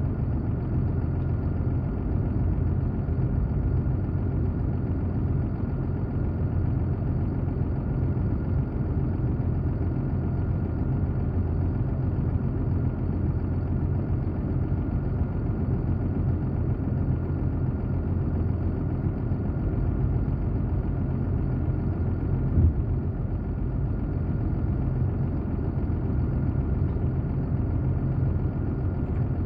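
An engine running steadily at idle, an unchanging low drone, with one short knock about three quarters of the way through.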